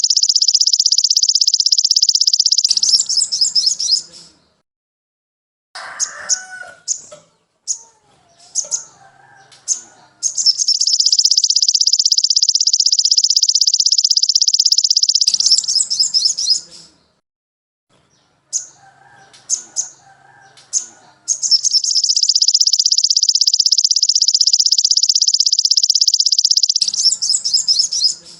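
Birdsong from a masteran training recording for sogon sunbirds. A very high, rapid trill is held for several seconds and comes three times, with short sharp chirps and fainter lower warbling in the gaps between.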